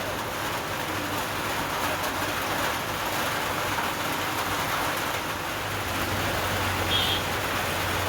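Heavy rain falling steadily, an even hiss; a low steady hum joins in near the end.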